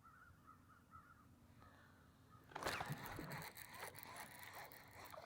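Quiet at first, then from about halfway in a stretch of irregular rustling and scraping with small knocks, as a live bass is handled and pressed down onto a measuring board in a kayak.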